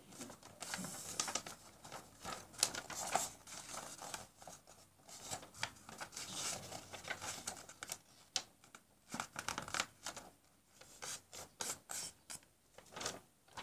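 A sheet of A4 paper being folded and creased by hand, with irregular rustling and short scraping strokes as the fold is pressed flat.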